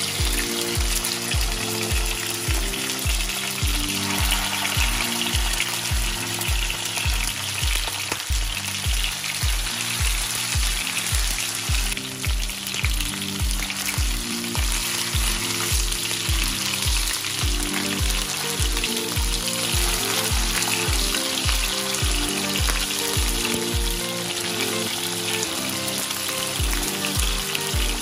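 Chicken drumsticks sizzling as they fry in hot oil in a nonstick pan, a steady hiss throughout. Background music with a steady beat plays underneath.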